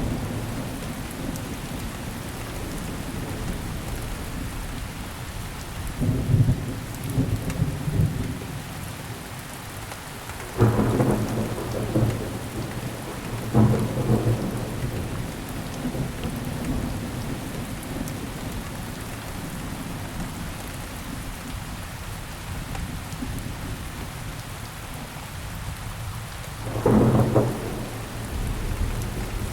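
Steady rain falling on surfaces, with deep rolls of thunder rumbling through it: several in the first half, a few seconds apart, and one more near the end.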